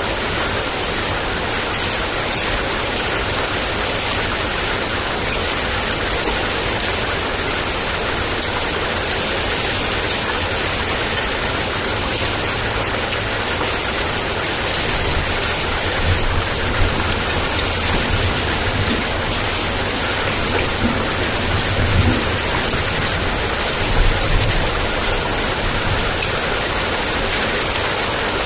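Heavy rain pouring steadily, with low rumbles of thunder coming and going in the second half.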